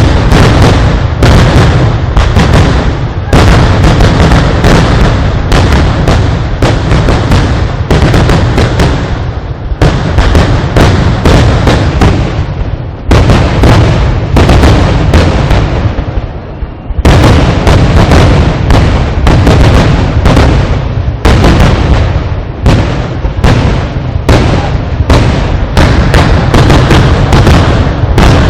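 Fireworks barrage: very loud bangs going off many times a second in an almost unbroken string, broken by a few brief lulls.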